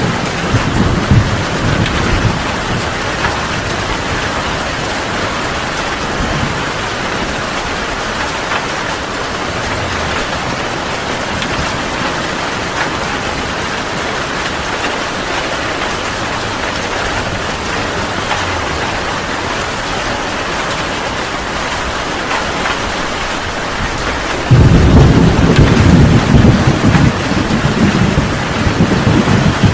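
Heavy rain falling steadily. A low thunder rumble fades over the first couple of seconds, and a loud roll of thunder starts near the end.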